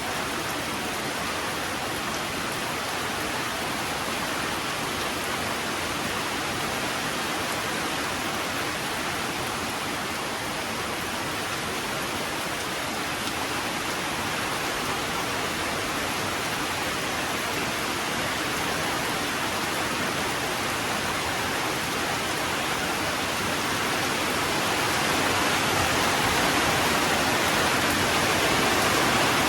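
Steady rain falling, an even hiss that grows somewhat heavier about 25 seconds in.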